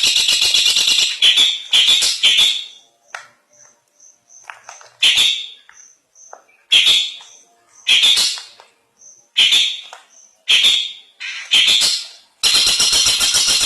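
Long-tailed shrike (cendet) singing. About two and a half seconds of dense, harsh, scratchy chattering song breaks into separate short harsh calls about a second apart, with faint high pips in between. The dense song starts again near the end.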